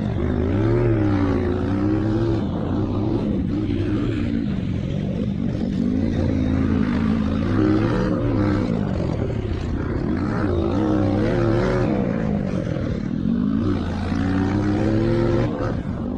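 Several motocross bike engines revving hard, their pitch rising and falling again and again with throttle and gear changes as the bikes race around the track.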